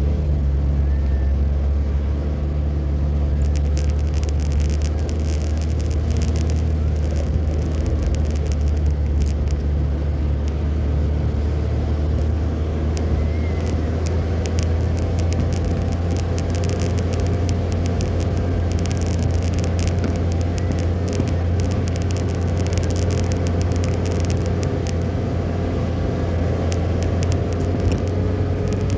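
A car being driven, with a steady low engine and road rumble and many scattered light ticks, thicker in patches.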